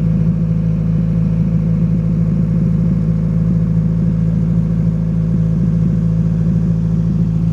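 Toyota Cynos EL44's 5E-FHE four-cylinder engine idling steadily, at an even pitch throughout.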